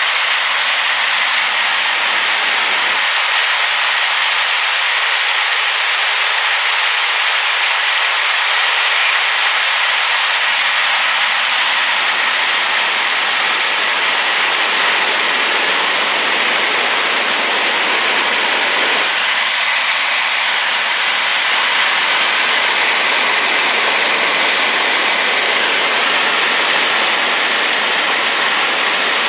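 Waterfall swollen with rainwater, its falling water making a loud, steady rushing hiss with no breaks.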